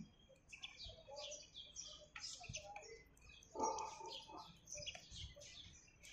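Small birds chirping, faint: a quick run of short, high calls throughout, with one brief louder, lower sound a little past halfway.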